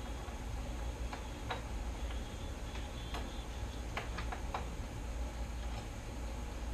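Irregular light clicks and taps of hand tools and bolts being handled, with a quick cluster of clicks about four seconds in, over a low steady hum.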